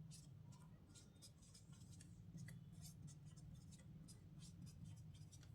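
Near silence: faint, scattered scratches of writing over a steady low hum.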